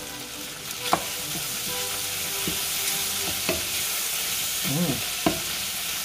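Pork belly pieces with tomato sizzling steadily in a non-stick frying pan while a wooden spoon stirs them, knocking sharply against the pan a few times.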